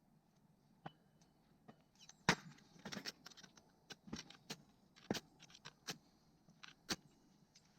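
Scattered sharp clicks and pops, about a dozen at irregular intervals, the loudest a little over two seconds in.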